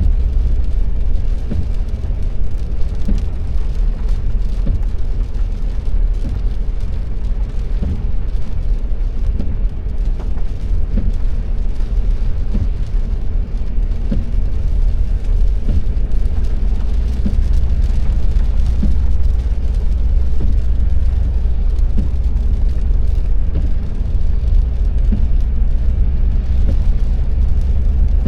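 Car driving on a wet road: steady low road and engine rumble with a hiss of tyres on the wet surface, and faint soft ticks every second or two.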